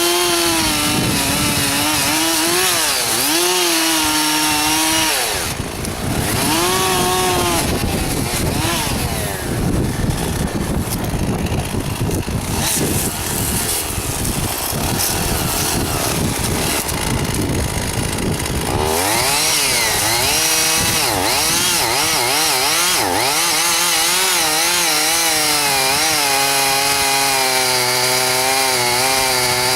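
Chainsaw revving up and down, then working under load in wood for about thirteen seconds from around five seconds in, before revving again and running at high speed near the end.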